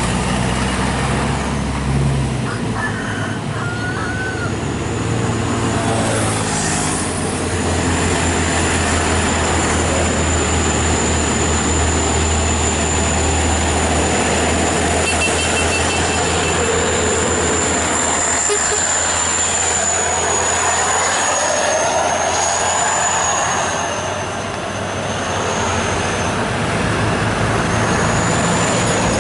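Heavily loaded truck's diesel engine running hard at crawling speed, a deep steady drone, with a high thin whistle joining about a quarter of the way in and wavering near the end.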